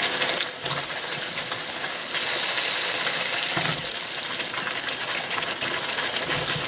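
Thick masala sizzling as it fries in oil in the pan, with a few soft knocks as raw potato cubes drop in.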